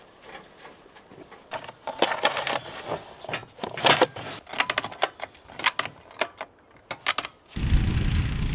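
An irregular run of sharp clicks and metallic clinks, then, about a second before the end, a steady low rumbling noise sets in.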